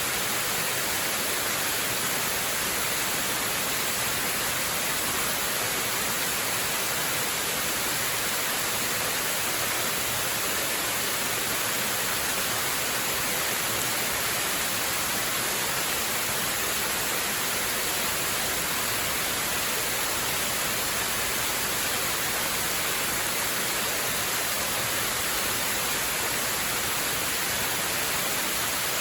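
Waterfall: a steady, unbroken rush of falling water, a constant hiss weighted toward the high end.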